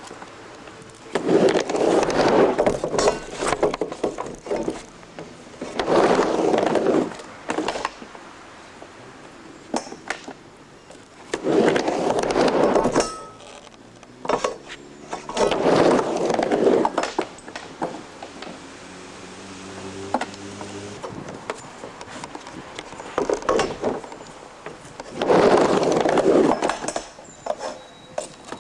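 Skateboard wheels rolling on a wooden mini ramp: loud rumbling runs of a second or two as the board crosses the ramp, recurring every few seconds, with sharp clacks of the board on the ramp between them.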